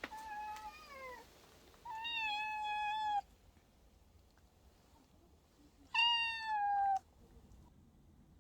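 Cat yowling: three long, drawn-out calls, the last one sliding slightly down in pitch.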